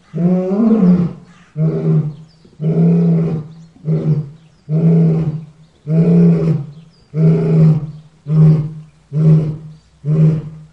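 Lion roaring in a bout of about ten deep calls, the first ones long and the later ones shorter and coming closer together.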